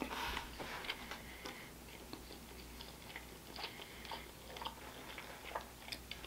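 Close-miked chewing of a mouthful of mac and cheese: faint, soft mouth noises with small scattered clicks.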